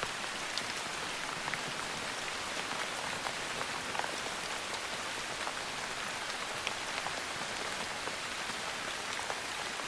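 Steady rain falling, an even hiss with many individual drops standing out as scattered sharp ticks.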